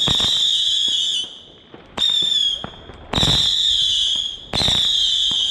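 Firework battery firing whistling shots: each shot starts with a crack and then a shrill, slightly wavering whistle of half a second to over a second. Four whistles in turn, the first already sounding at the start and the last still going at the end.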